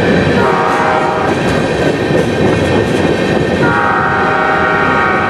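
Freight train of covered hopper cars rolling past with a steady rumble and wheel noise. A locomotive horn sounds from up ahead, with a short blast about half a second in and a longer one starting just before four seconds in.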